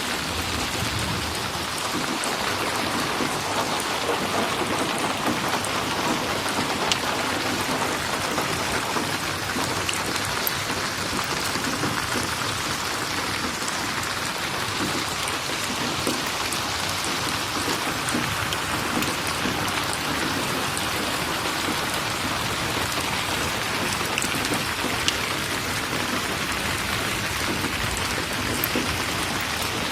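Steady rain falling, a dense even hiss of drops with a few faint sharp ticks.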